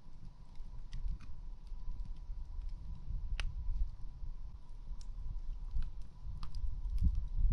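Campfire crackling: scattered sharp pops and snaps, irregular and a second or so apart, over a steady low rumble.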